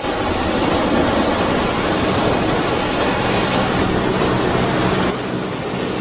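Floodwater rushing, a loud steady wash of noise that drops a little in level and loses some hiss about five seconds in.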